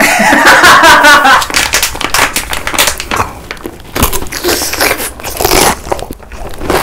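Close-up crackling, crinkling and crunching of food being handled and eaten, dense irregular clicks throughout, with a brief voice in the first second or so.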